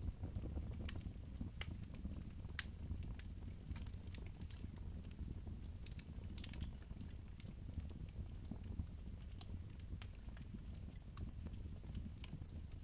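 Wood fire crackling in a fireplace: scattered, irregular pops and snaps over a low, steady rumble.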